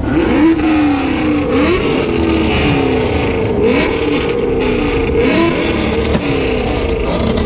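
Car engines revving hard over and over, several at once, their pitch climbing and dropping repeatedly.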